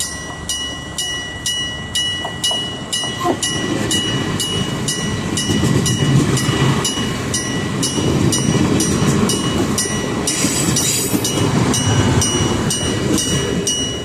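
A train passing close by: its rumble and wheel noise build from about three seconds in and are loudest through the middle, with a brief hiss about ten seconds in. Throughout, a steady high ringing signal repeats in quick regular strikes, about two to three a second.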